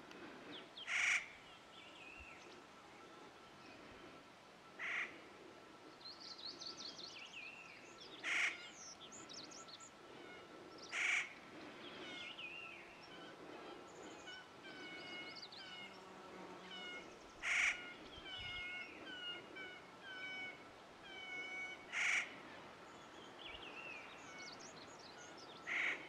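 A bird's harsh, rasping single calls, seven in all, spaced a few seconds apart. Between them, smaller birds twitter and give runs of quick repeated chirps.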